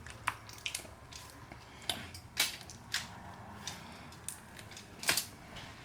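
A person chewing and eating shrimp close to the microphone: irregular wet mouth clicks and smacks, roughly one every half second to second.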